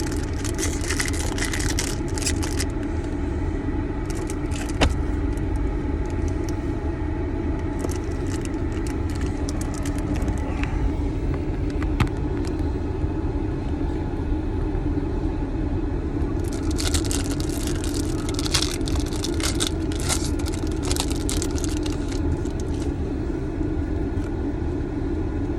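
Steady low rumble of a car idling, heard from inside the cabin, with bursts of crinkling and rustling as a foil booster-pack wrapper and trading cards are handled, about a second in, near eight seconds, and again from about sixteen to twenty-two seconds.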